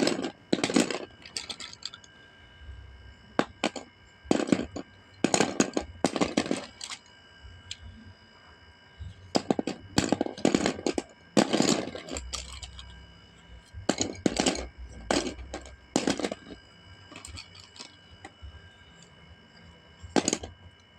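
Coloured pencils dropped onto a whiteboard, clattering in quick clusters of clicks and taps about every second, with a few short pauses between runs of drops.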